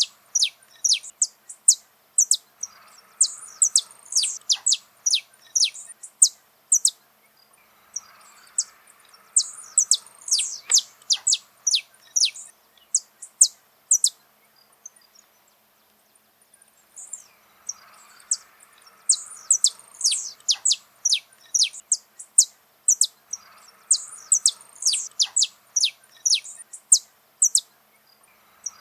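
Saffron finch singing: fast phrases of sharp, high, downward-slurred notes, in four bouts separated by short pauses.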